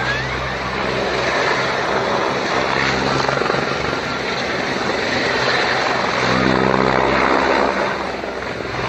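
Helicopter running close by: a steady, loud rotor and turbine noise with a low engine drone underneath.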